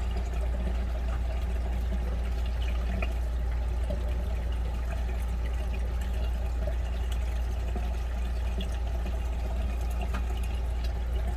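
Wash water draining out of the wash tub of a SUPER DEAL SD2304 mini twin tub washing machine through its gravity drain, a steady pouring trickle over a steady low hum.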